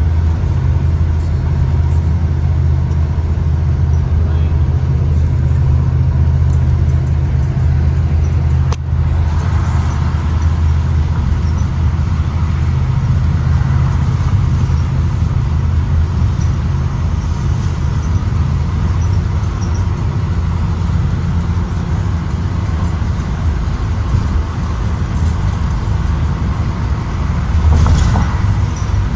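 A 2023 Blue Bird Vision school bus on the move: a steady low engine and road drone. There is one sharp click about nine seconds in and a short, louder rush of noise near the end.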